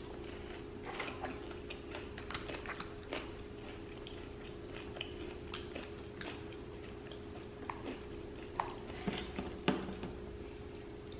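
Close-miked eating: quiet chewing with scattered short mouth clicks and smacks, over a faint steady hum.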